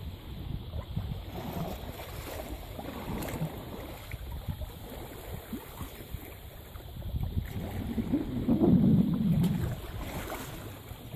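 Wind rumbling on the microphone and water rushing along the hull of a Top Hat 25 sailing yacht under way, swelling louder for a second or two about eight seconds in.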